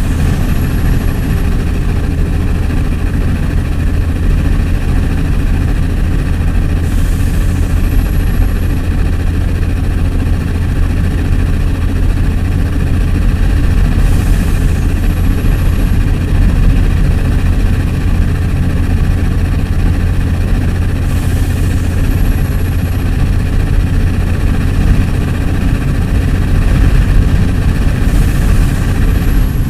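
Heavy diesel engine of a concrete pump running steadily, with a deep, continuous hum. About every seven seconds a brief hiss and a short, very high tone recur in a regular cycle.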